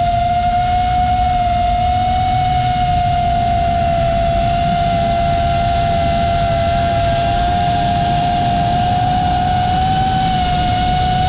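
Brushless motors and propellers of an Armattan Badger FPV quadcopter whining at a nearly steady pitch, with a dense low rushing noise underneath.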